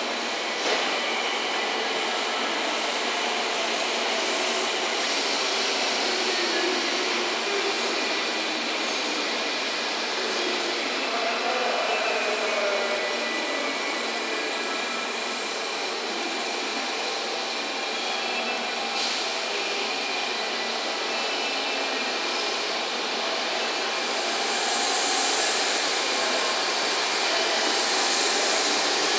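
N700S Shinkansen train pulling slowly away from a standstill. Its traction motors and wheels make a steady running noise with a faint steady whine. The noise grows louder and brighter near the end as the train picks up speed.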